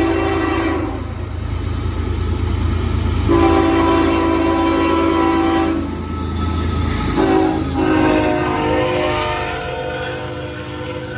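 Union Pacific freight locomotive's air horn sounding the grade-crossing signal over the diesel engine's low rumble: the tail of one blast, a long blast, a short one, then a final long blast that drops in pitch as the locomotive passes.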